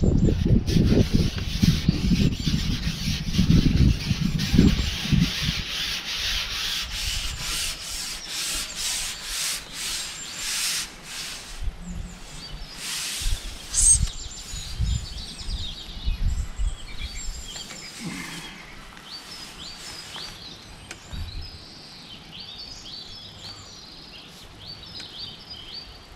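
Rough rubbing and scraping handling noise, loudest in the first half, with a low rumble of wind buffeting the microphone over the first few seconds. Small birds chirp faintly in the background in the second half.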